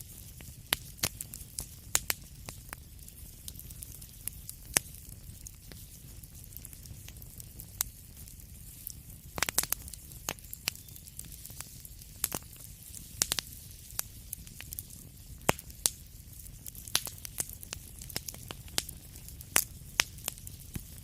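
Wood fire crackling in a fireplace: irregular sharp pops and snaps, a few per second and clustered about nine seconds in, over a steady low rumble and faint hiss.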